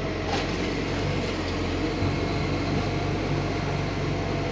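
Garbage truck's diesel engine running, a steady low drone.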